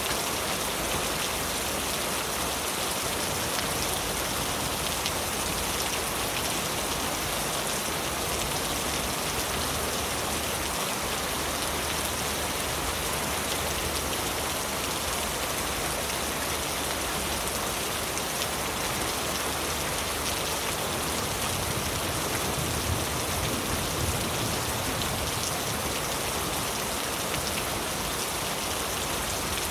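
Heavy, steady rain falling on leaves: a dense, even hiss of drops.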